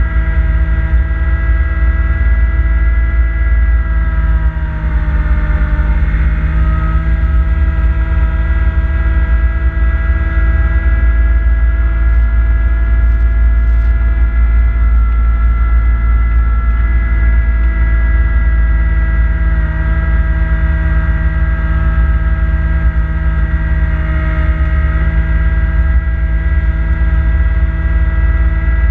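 Kubota B2650 tractor's three-cylinder diesel engine running steadily at high revs while driving a front-mount snowblower, a heavy low rumble under a steady whine. The pitch sags briefly about five seconds in, and again slightly near the end.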